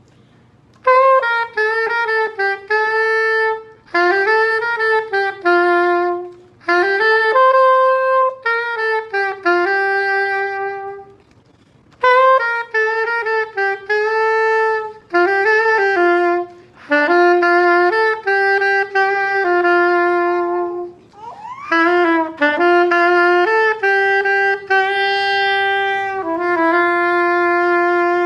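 Solo saxophone playing a slow hymn melody, one note at a time, in phrases of a few seconds with short breaks for breath between them.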